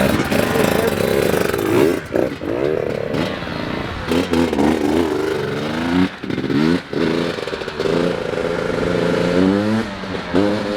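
Enduro dirt-bike engines revving, the pitch climbing and dropping back over and over as the bikes accelerate and shift, with a few sharp knocks in between.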